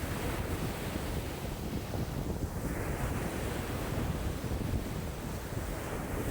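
Wind-driven lake waves washing and breaking against the shore, with strong wind buffeting the microphone in a low, gusty rumble.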